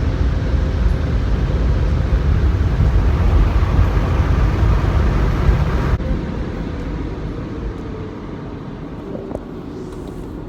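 Touchless car wash air dryer blowing hard over the car, heard from inside the cabin: a loud, steady rushing that drops off about six seconds in and then fades away.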